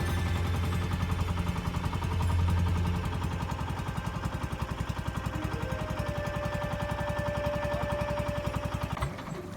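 Pump boat's single engine running with a fast, steady putter. The sound cuts off suddenly near the end.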